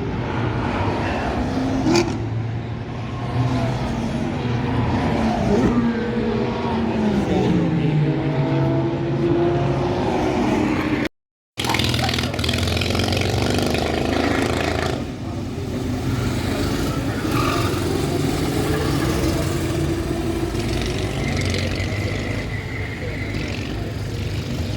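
Car engine and road noise while driving, the engine pitch gliding up and down as the car speeds up and slows, broken once by a brief silence partway through.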